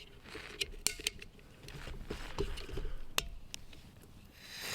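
Scattered small clicks and crackles, then near the end the steady hiss of gas starting to flow from a Jetboil stove's opened valve just before it is lit.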